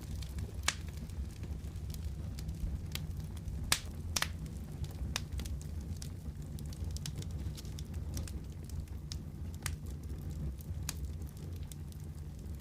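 Wood fire burning in a fireplace: a steady low rumble with irregular sharp crackles and pops scattered throughout, a few louder pops standing out.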